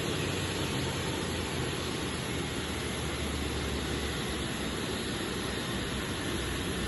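Steady noise of jet aircraft engines running, with a low hum underneath that fades about four seconds in.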